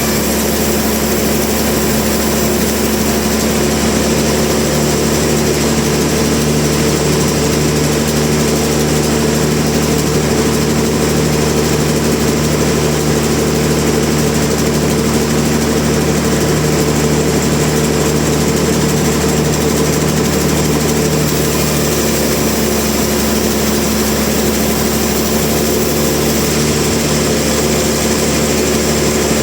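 Sawmill machinery running with a steady, even drone.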